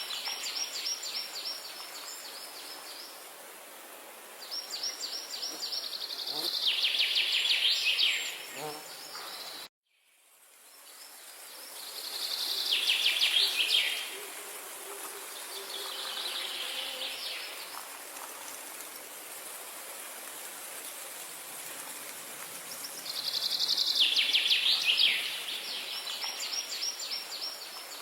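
A songbird singing, repeating a phrase of fast, trilled high notes every few seconds over a steady outdoor hiss. Near the middle the sound cuts out suddenly and fades back in.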